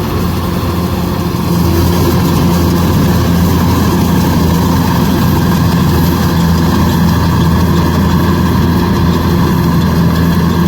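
Kubota DC105X combine harvester's diesel engine running steadily, getting louder about one and a half seconds in.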